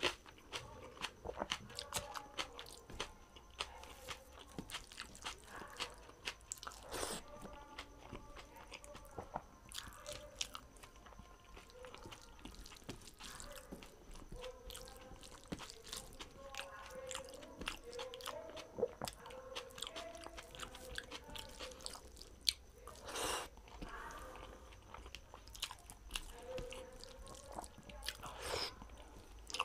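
Close-miked chewing and mouth sounds of a person eating rice and dal by hand: wet clicks and lip smacks throughout, with a few louder short bursts.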